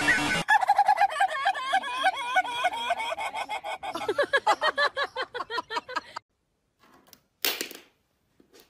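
A sun conure giving a rapid string of short chirping calls, about four or five a second, each rising and falling in pitch, for about six seconds. Then it stops, and a brief soft rustle follows near the end.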